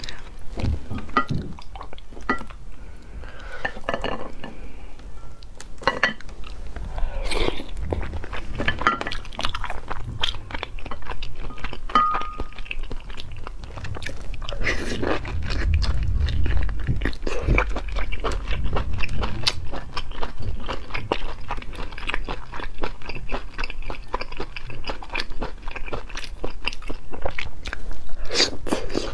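Close-miked biting and chewing of sea snail meat: many small, irregular crunching clicks and mouth sounds with occasional duller thumps.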